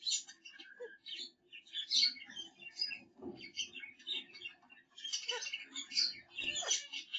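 Finches chirping and twittering in quick, busy high-pitched bursts, with a couple of soft low thumps about three and six and a half seconds in.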